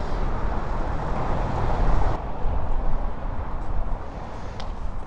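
Strong wind buffeting the microphone in a storm: a gusty, low rumbling noise that eases about two seconds in.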